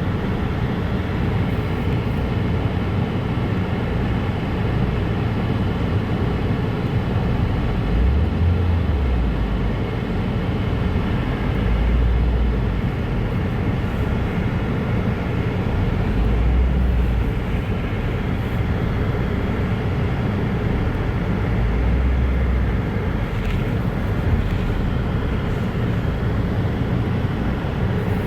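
A car driving, heard from inside: a steady rumble of engine and road noise, with a few brief deeper swells.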